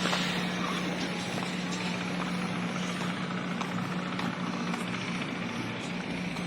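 Steady machine hum with a constant low tone, over a wide haze of background noise.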